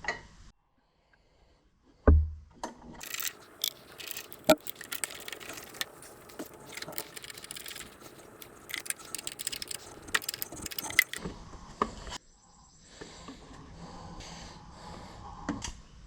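A single heavy thump about two seconds in, then a run of light metallic clinks, rattles and scrapes, as of tools and metal parts being handled. The clinking stops briefly near eleven seconds, and a softer steady rustle follows.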